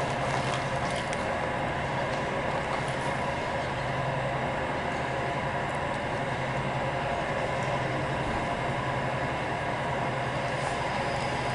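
Suzuki Every Wagon PZ Turbo's 660 cc turbocharged three-cylinder engine idling steadily, with an even low hum.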